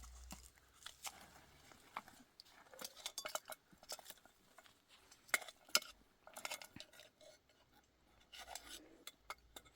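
Irregular clinks and taps of utensils against dishes, with two sharper clinks about five and a half seconds in.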